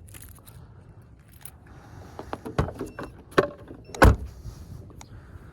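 Scattered clicks and knocks of things being handled, with three louder clunks under a second apart in the second half.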